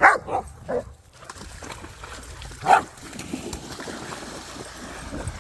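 A dog yelping and whining in short calls for the first second, then one loud bark near the middle, eager for a stick about to be thrown.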